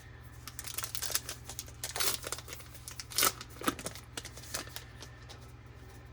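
Baseball card pack wrapper being torn open and crinkled, in irregular crackling bursts that are loudest around the middle.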